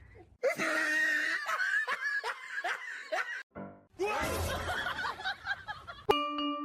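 Laughter in two runs of short rising and falling "ha" syllables, about three a second. About six seconds in, it gives way to bright mallet-percussion notes like a glockenspiel or xylophone.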